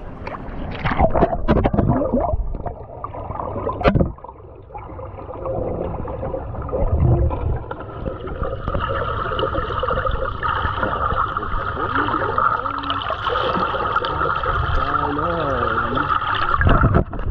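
Pool water gurgling and bubbling, muffled as if heard from under the surface, with a steady high whine through the second half. Muffled voices and a knock come in the first few seconds.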